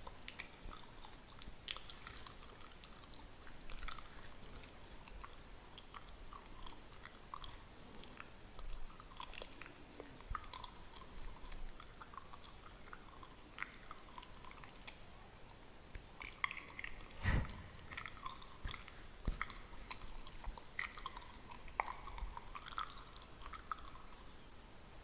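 Fingernails scratching through a beard close to the microphone: dense, irregular crackling and rasping, with one louder thump about two-thirds of the way through.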